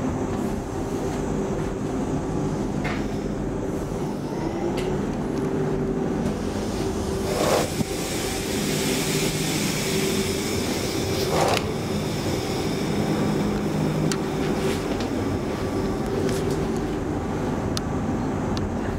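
Interior running noise of a Stockholm commuter rail X10 electric multiple unit: a steady rumble with a constant hum. Two brief louder clatters come about seven and eleven seconds in, with a rise in hissing between them.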